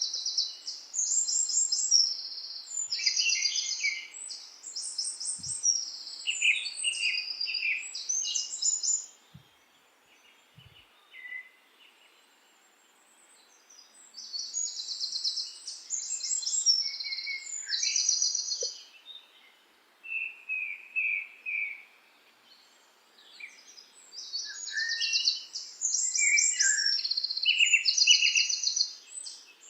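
Songbirds singing: bouts of high, rapidly trilled phrases, pausing for a few seconds around the middle before starting again.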